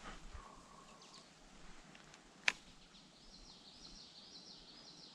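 A single sharp click about halfway through, then a small bird singing a run of high, quick notes over quiet creek-side ambience.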